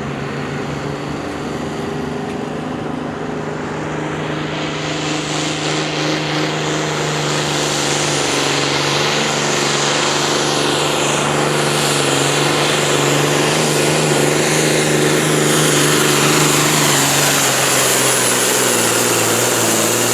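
Farm stock class pulling tractor's engine running hard under load as it drags the weight sled down the track, a steady engine note with a rising rush of noise that builds over the first few seconds and grows a little louder toward the end.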